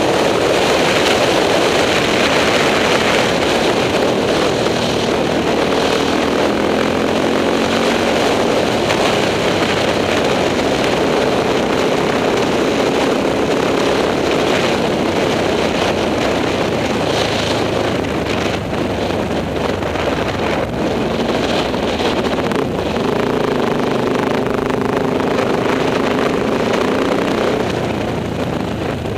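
Enduro motorcycle engine running under changing throttle while being ridden, its pitch rising and falling.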